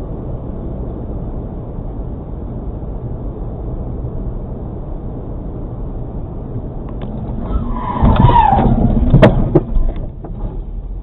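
Dashcam recording of a car on the road: steady road and engine noise, then about eight seconds in a tyre screech falling in pitch, followed by a loud bang and a few smaller knocks of a collision.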